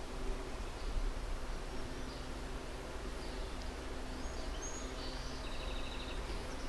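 Steady outdoor background noise with a low hum, over which small birds give a few faint high chirps in the second half and a short, rapid trill near the end.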